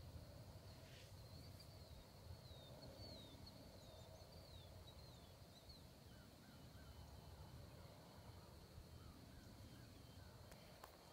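Faint birdsong at dawn: a bird gives a quick series of short falling chirps for the first half, then fainter scattered notes, over a low rumble and a thin steady high whine.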